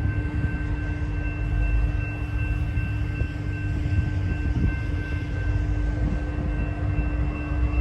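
Diesel railroad locomotive running: a steady low engine rumble with constant high whining tones over it.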